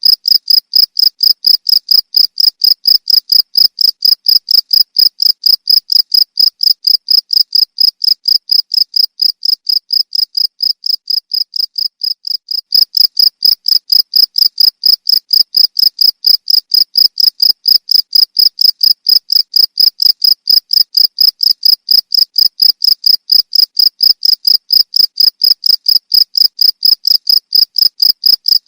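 A cricket chirping in a steady, even rhythm of about three high-pitched chirps a second. The chirps soften slightly for a few seconds in the middle and come back abruptly at full strength.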